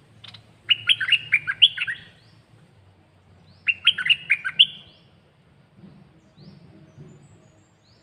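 Caged red-whiskered bulbul singing two short, loud phrases of quick warbling notes, about three seconds apart. Faint short rising chirps come between them.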